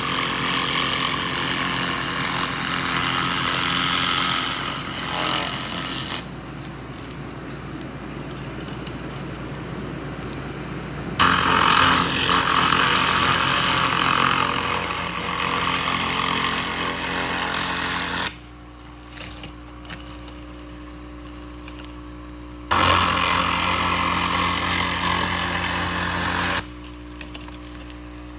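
SFX 2000 handheld laser rust remover firing at rust, a loud steady hiss in three long bursts that start and cut off sharply, with quieter gaps between them. A steady low hum runs underneath.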